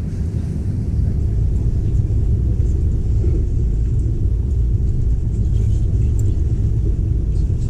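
Steady low rumble of a moving intercity train running on the line.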